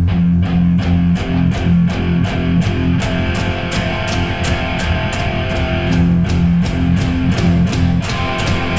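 Electric guitar playing a rock riff of repeated low picked notes in a steady rhythm.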